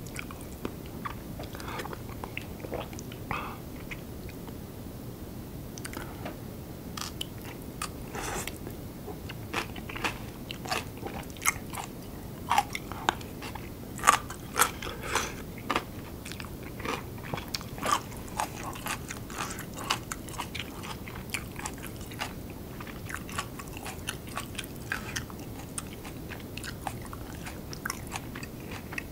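Close-miked chewing and biting of curry rice: many short, wet mouth clicks and crunches, busiest and loudest about halfway through.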